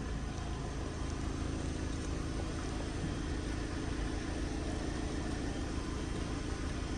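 A car engine running steadily at idle, a low even rumble.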